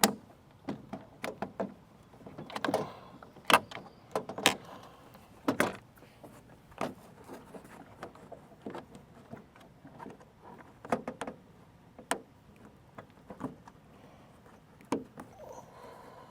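Irregular sharp clicks and knocks of plastic glove-box parts being handled and snapped into place as the handle is refitted.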